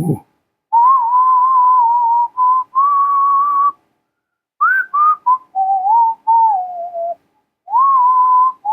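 A person whistling a slow melody in several held phrases with short breaths between them, the pitch lifting briefly around the middle and sliding down at the end of one phrase.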